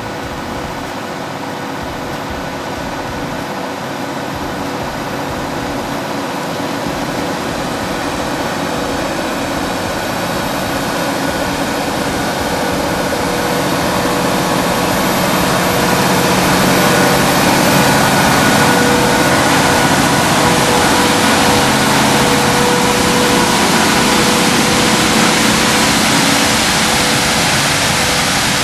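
A heavy engine running steadily with a faint steady whine, growing gradually louder through the first half and then holding.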